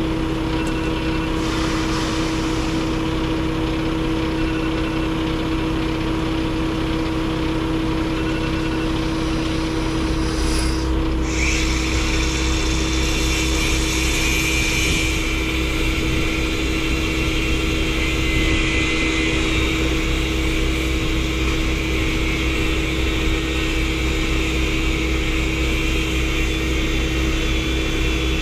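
Truck engine running steadily, a constant hum with a steady tone. About ten seconds in the low rumble grows stronger and a hiss joins it.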